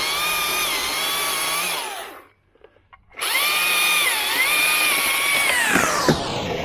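Chainsaw cutting at full throttle in two runs with a short break between, the engine note dipping briefly under load; near the end the revs fall away as the throttle is released. The saw is cutting through an oak limb so the piece can be dropped from the tree.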